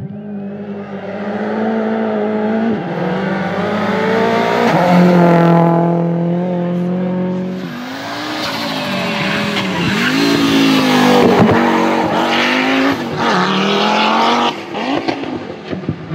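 Rally car engine under hard running: revs held high and dropping in steps in the first half, then falling and climbing sharply several times as the throttle is lifted and reapplied.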